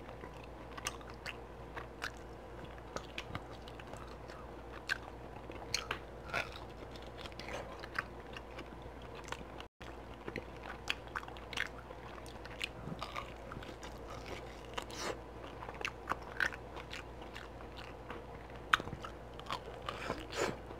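Close-miked chewing and biting of barbecue-sauced beef ribs, with many irregular mouth clicks and smacks over a steady low hum. The sound cuts out for an instant about halfway through.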